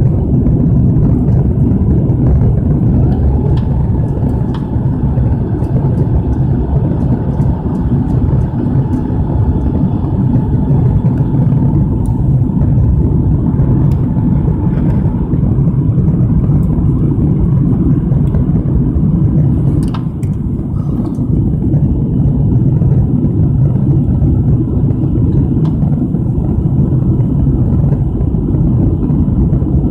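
Lockheed TriStar airliner's turbofan jet engines heard from inside the cabin: a loud, steady, deep rumble, with a faint whine that rises slightly a few seconds in and fades out about halfway through, and scattered light rattles.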